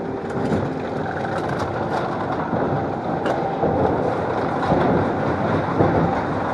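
Amusement ride cars rumbling and rattling along their track, a steady running noise with scattered small clicks.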